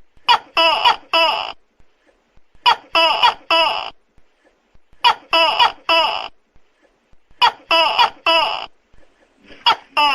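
Tokay gecko calling loudly: a short burst of three bending calls, repeated about every two and a half seconds, four times, with a fifth burst beginning near the end.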